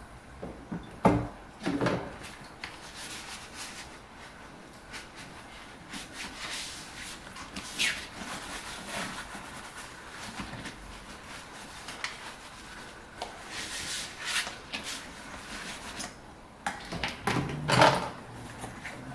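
Dishes being washed by hand: plates and utensils knocking and clattering in the sink, with lighter clicks and scrubbing between. A sharp knock about a second in and a louder clatter near the end.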